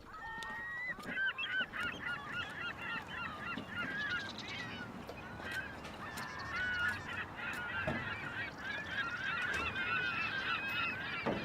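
A flock of birds calling over one another: many short honking calls overlapping throughout.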